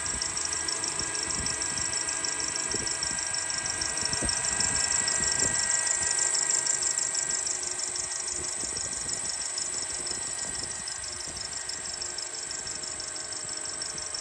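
2007 Honda Accord K24 four-cylinder engine running with a rapid, high-pitched chirping that repeats many times a second over the engine's hum.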